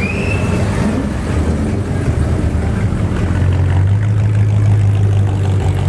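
Engine of a classic American convertible running as the car drives slowly past, a steady low drone that swells and is loudest about four to five seconds in.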